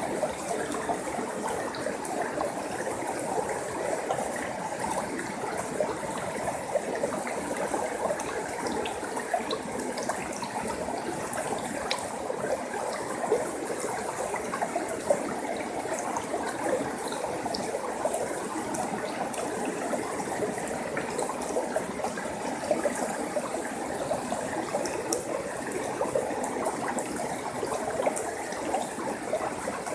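Forest stream flowing steadily over rocks, a continuous babble of trickling and splashing water.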